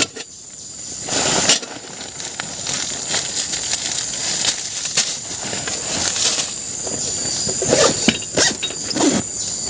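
Rustling and scattered knocks and clicks of hands working with wood and materials on a forest shelter, over a steady high insect drone.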